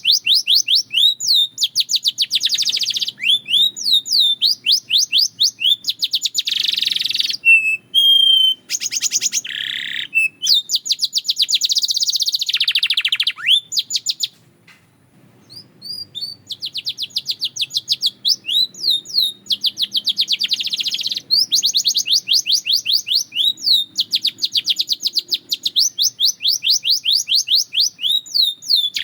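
A canary singing: long, fast trills of rapidly repeated notes, broken about eight seconds in by a few short pure whistled notes, with a pause of about two seconds midway.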